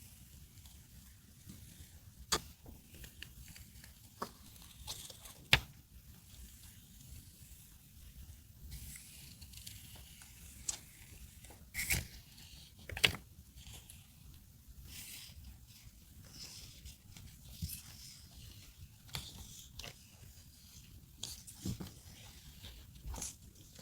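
Close-up handling of paper stationery and packaging: soft rustling and crinkling broken by scattered sharp taps and clicks, the loudest a few seconds in and again about halfway.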